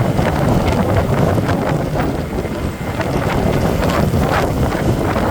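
Wind rumbling and buffeting on the microphone while riding a motorbike through city traffic, with vehicle noise underneath.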